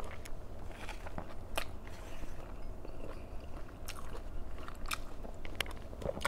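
Close-miked eating: a person chewing and biting food, with irregular crunches and wet mouth clicks, over a steady low hum.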